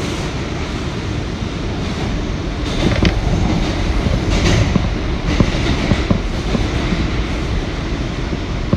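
R179 subway car running on the express track, heard from inside the car. A steady rumble of wheels on rail, with sharp clicks as the wheels pass over rail joints. Hissy stretches come about three and four and a half seconds in.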